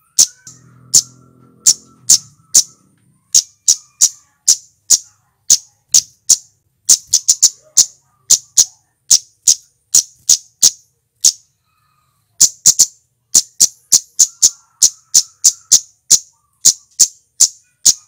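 Male flowerpecker (cit keres, cabe-cabean) calling: a rapid series of sharp, high, clipped 'tsit' notes, about two a second, with brief pauses about three and twelve seconds in.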